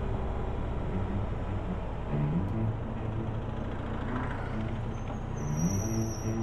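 Motorcycle engine running under way, its pitch climbing twice as it picks up speed and then holding steady. A high whine joins it near the end.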